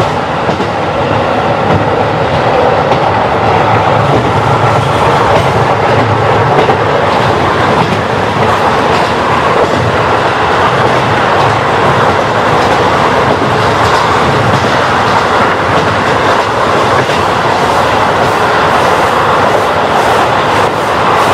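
KiHa 40 diesel railcar running, heard through an open window: steady engine and wheel noise, with the wheels clacking over rail joints.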